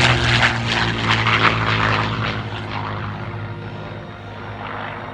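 P-51D Mustang's Packard Merlin V-12 engine at high power as the plane passes low and flies away, its tone dropping and the sound fading steadily.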